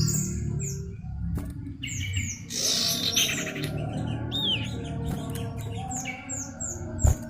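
Cipow (common iora) chirping: short high whistled notes that sweep downward, several in quick succession near the end. A sharp knock comes just before the end.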